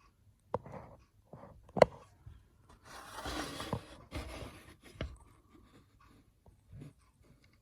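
A few sharp clicks and one louder tap, then about two seconds of rustling or scraping.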